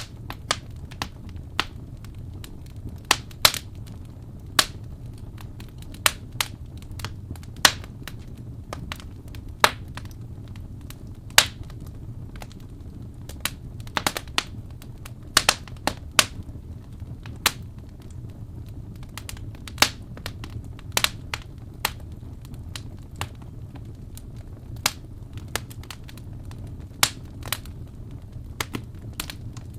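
Wood fire in a fireplace crackling, with irregular sharp pops of varying loudness over a steady low rumble.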